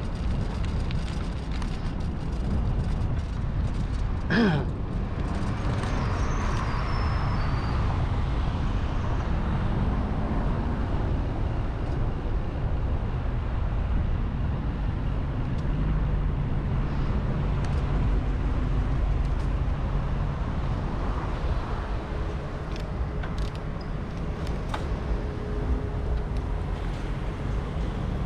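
Wind rushing over the microphone and road noise while riding a bicycle along a road with traffic, with a short falling tone about four seconds in.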